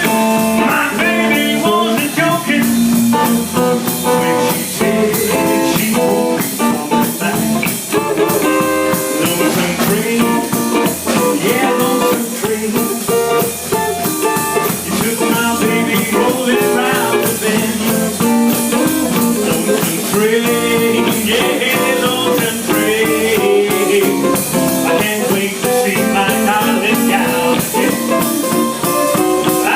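Live band playing a blues-style rock and roll number, with electric guitar and a drum kit keeping a steady beat.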